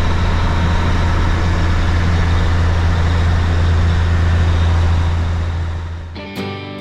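Steady low drone of a heavy truck's diesel engine running under way, plausibly the Kenworth K-100's Caterpillar 3406A. About six seconds in it cuts off and acoustic guitar music begins.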